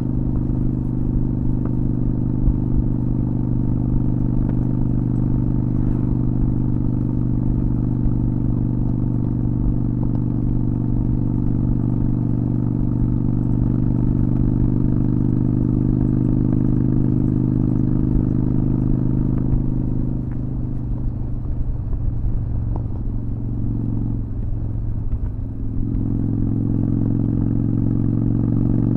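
Honda Shadow VT600's V-twin engine running steadily under way. About twenty seconds in, the engine note drops and thins out for about five seconds, then comes back up.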